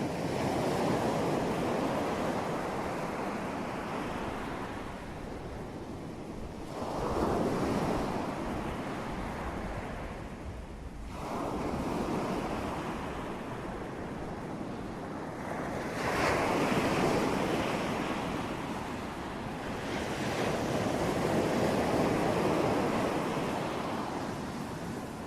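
Ocean surf: waves breaking and washing in, swelling and fading five times, roughly every four to five seconds.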